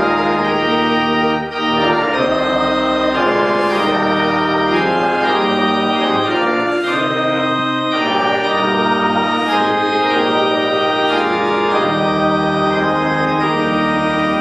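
Church organ playing a hymn in full, sustained chords that change every second or so.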